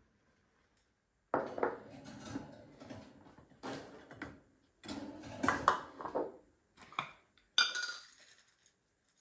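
Hard dishes or containers clinking and clattering as they are handled, in irregular bouts with sharp knocks, after a second of quiet.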